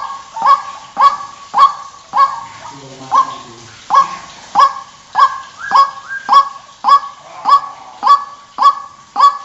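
White-breasted waterhen calling: a steady series of sharp, nasal 'ruak' notes, about two a second. This is the looped lure call used by bird trappers to draw waterhens in.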